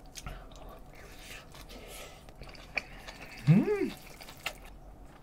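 Faint wet chewing of a mouthful of seasoned rice and chicken, with a short hummed "mm" about three and a half seconds in that rises and then falls in pitch.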